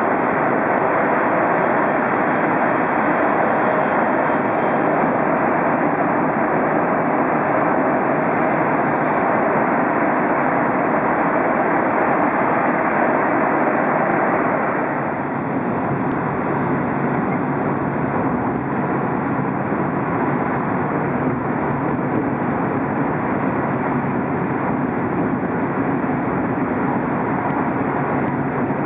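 Steady rushing running noise of an E5 series Shinkansen at speed, heard from inside the passenger cabin. It dips slightly about halfway through.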